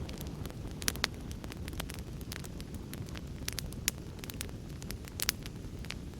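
Wood fire crackling, with irregular sharp pops and snaps (a couple of louder pops about a second in and near the end), over a steady low rumble of heavy rain.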